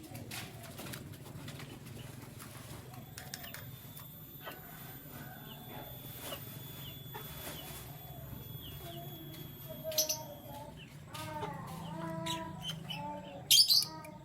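Caged birds moving about: scattered clicks, rustles and short chirps, a run of lower call notes in the last few seconds, and a brief loud flurry that fits wings flapping about a second before the end.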